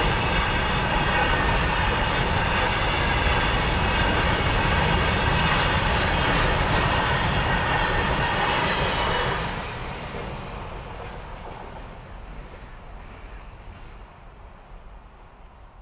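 Freight train of covered goods wagons rolling past at close range: a loud, steady rumble and rattle of wheels on the rails. About nine and a half seconds in, the last wagon passes and the sound falls away, fading steadily.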